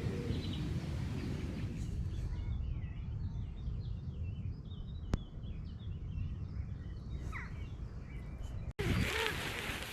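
Birds chirping and singing in short, repeated calls over a steady low background rumble of a dawn wood. One sharp click comes about halfway. Near the end the sound breaks off and gives way to a louder, even hiss.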